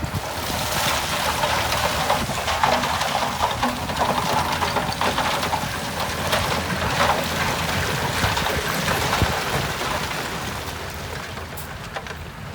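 Earthmoving machine at work: a low diesel engine rumble under a rushing, crackling noise of soil and rock being moved, easing near the end.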